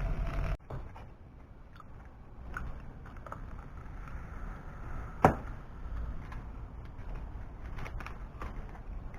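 Faint crackling with scattered small pops and one sharp snap about five seconds in, from cooking over a small wood-burning can stove.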